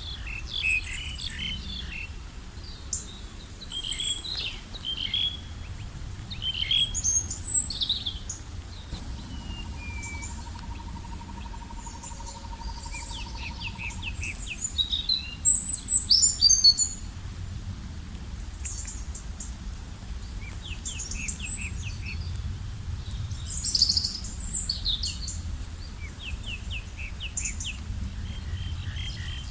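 Several wild birds chirping and singing, short high calls and trills overlapping throughout, with the loudest burst about halfway through. A steady low rumble lies underneath.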